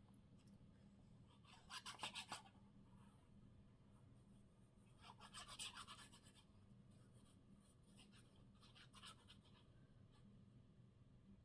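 Paper being handled and rubbed down on a card, heard as three short, faint rustling bursts over near silence.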